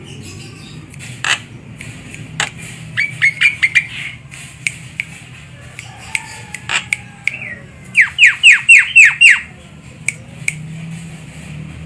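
Javan myna calling: scattered sharp clicks, a quick run of five short notes about three seconds in, and a louder run of about seven quick falling notes about eight seconds in.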